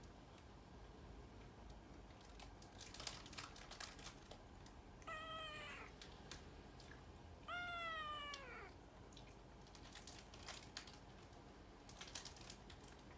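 Short-legged pet cat meowing twice, about two seconds apart, each meow falling in pitch, the second longer and louder. Scattered light clicks come before and after the meows.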